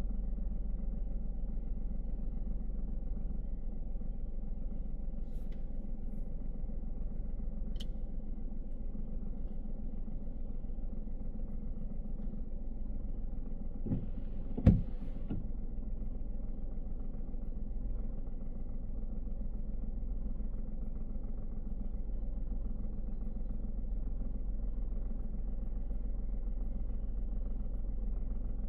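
Car driving on a city road: a steady low rumble of engine and tyre noise, with one sharp thump about halfway through.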